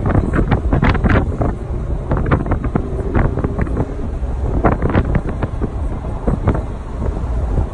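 Heavy wind buffeting on the microphone of a moving car, crackling irregularly over a steady low rumble of engine and road.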